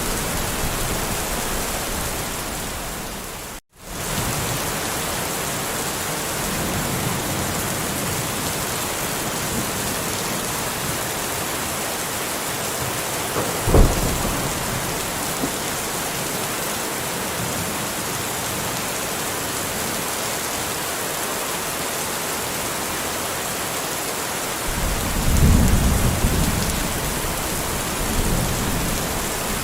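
Steady heavy rain falling, with a sharp clap of thunder about fourteen seconds in and a low rumble of thunder near the end. The rain cuts out for a split second about four seconds in.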